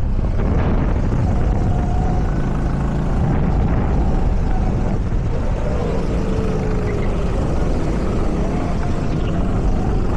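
Go-kart engine running steadily, a loud low drone with faint slight rises and falls in pitch.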